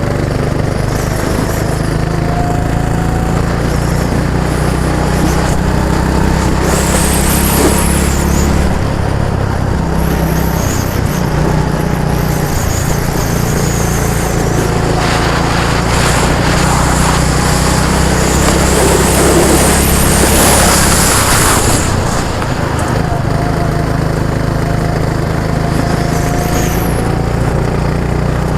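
An engine running steadily close by, its low note shifting slightly a few times, with passing patches of hiss.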